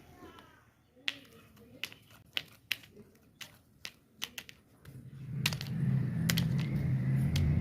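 A series of sharp clicks and taps from small parts being handled. About five seconds in, a small electric motor starts and runs with a steady hum.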